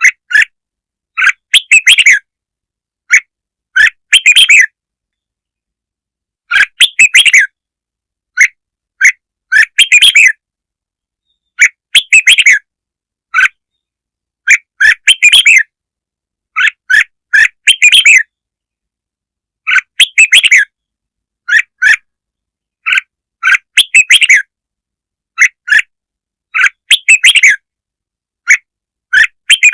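Red-whiskered bulbul song used as a lure call: short bursts of bright chirping phrases, repeated every second or two with silent gaps between them.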